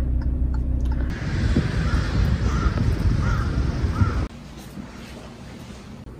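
A steady low car-cabin rumble, then outdoor air noise with a bird giving four short calls about a second apart. This cuts off suddenly a little after four seconds, leaving quiet indoor room tone.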